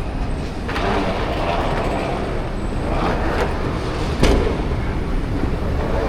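Railway station ambience: a steady low rumble with two hissing swells and a sharp knock about four seconds in.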